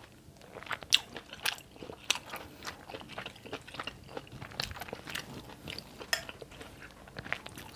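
Close-up eating sounds: chewing and biting with small crunches and irregular sharp clicks, while a metal spoon scoops ketupat sayur from a glass bowl.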